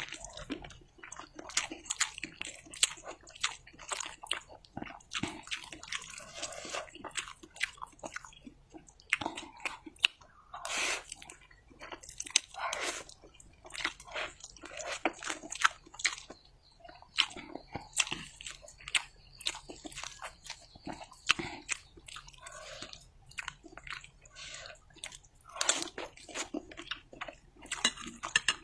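Close-miked eating: continual wet chewing and biting of fried instant noodles with egg and fresh chilies, with frequent small crunches and smacking mouth clicks at an irregular pace.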